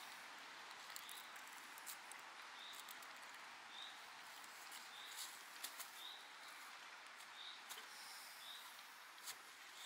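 Quiet woodland ambience: a bird repeats a short high chirp about once a second, while a small fixed-blade knife shaving a wooden stick gives faint scattered scrapes and clicks.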